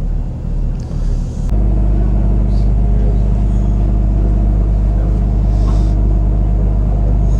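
Tour boat's engine droning steadily underway. It gets louder and steadier about one and a half seconds in.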